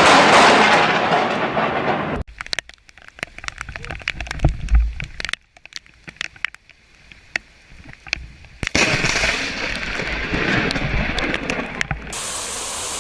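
Thunder from a close lightning strike, loud and rumbling, fading over the first two seconds and cut off abruptly. Then a quiet stretch of scattered sharp crackles and pops, and from about nine seconds in a steady rushing noise of storm rain and wind.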